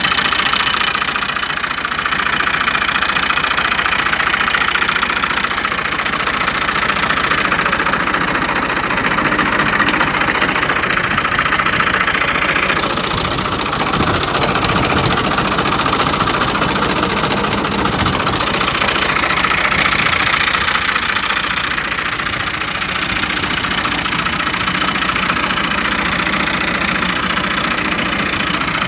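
Fiat 480 tractor's diesel engine running steadily near idle, its tone shifting for a few seconds midway.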